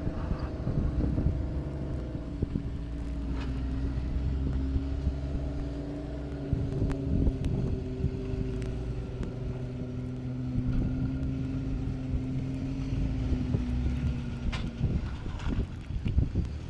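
Jeep engine running at low revs while crawling over rock, its pitch easing up and down a little with the throttle. There are a few sharp clicks and knocks along the way, and some wind noise on the microphone.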